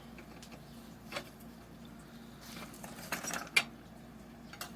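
Scattered light metallic clicks and clinks of small motorcycle parts and tools being handled, the sharpest about three and a half seconds in.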